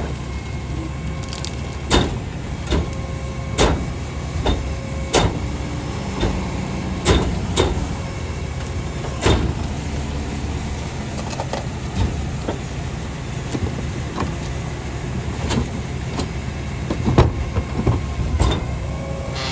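Rear-loader garbage truck's engine running steadily, with a string of sharp knocks and bangs at irregular intervals.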